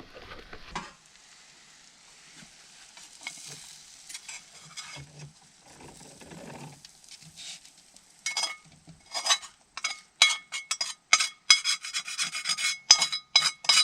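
Metal utensil scraping and scooping food around a frying pan, faint at first. From about eight seconds in come quick, sharp scrapes and clinks with a metallic ring as the browned, stuck-on bits are scraped off the bottom.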